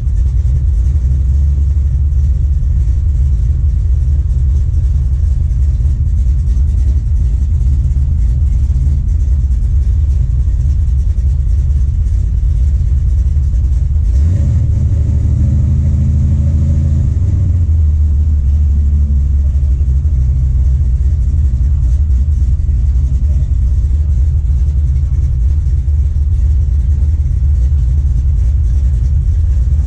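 A truck engine running steadily at low revs, heard from inside the cab as a deep rumble, with a slight change in tone about halfway through. Right at the end the revs begin to climb.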